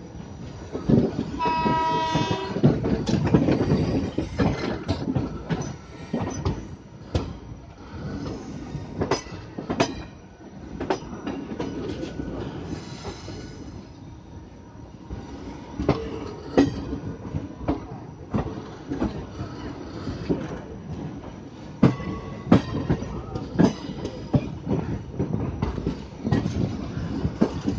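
Passenger express coaches rolling over rail joints and points, heard from on board: a steady rumble with irregular sharp clacks and knocks from the wheels. A train horn sounds once, for about a second, near the start.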